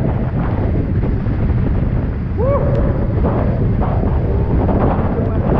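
Strong wind buffeting the microphone of an action camera on a Hobie 16 catamaran sailing fast, a loud, steady low rumble with water rushing beneath it. A brief rising-then-falling pitched tone cuts through about two and a half seconds in.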